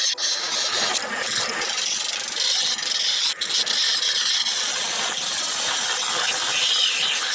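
Wood lathe running with a parting tool cutting into the spinning wood: a steady, loud scraping hiss that breaks off briefly just after the start and again about three and a half seconds in, as the tool comes off the cut.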